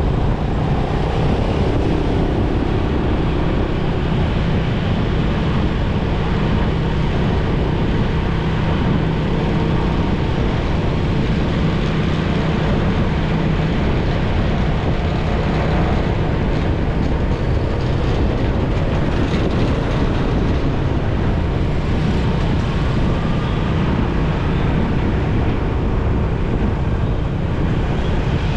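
Motorcycle being ridden at a steady pace: a steady engine hum under dense road and rushing-air noise.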